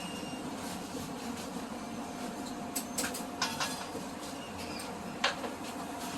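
Steady mechanical hum of a busy food stall's kitchen, with a few sharp clicks and clinks about halfway through and one louder knock near the end.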